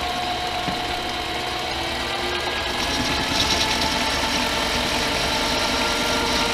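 Harbor Freight mini lathe running steadily, with a constant motor whine, while taking a 15-thousandths turning pass on the stock. It gets slightly louder about halfway through.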